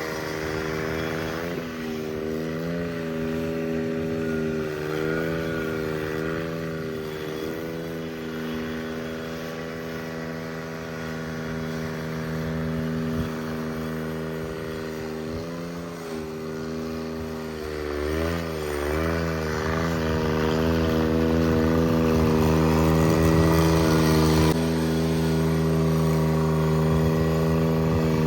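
Cub Cadet 782 garden tractor engine running in the cold, its speed sagging and picking back up several times, running more steadily and louder over the second half.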